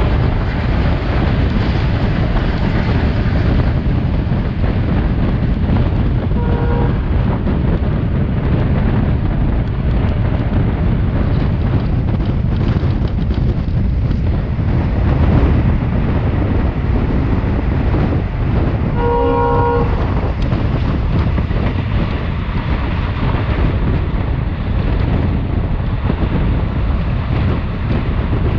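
WDG-3A diesel-hauled passenger train running at speed, with steady running noise throughout. The locomotive's multi-tone horn sounds briefly about six seconds in and again for about a second midway.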